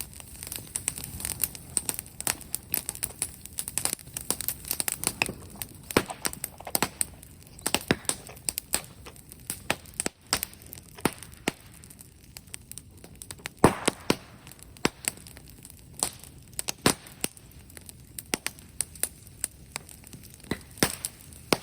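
Wood bonfire crackling and popping, with many irregular sharp snaps and one louder snap about halfway through.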